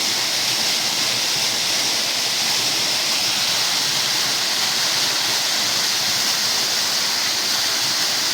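Waterfall pouring: a steady rush of falling water with no change throughout.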